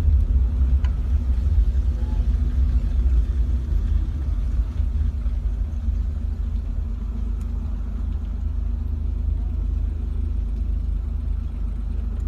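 Steady low rumble of a motor vehicle running on the road, with an even engine hum, a little louder for the first few seconds.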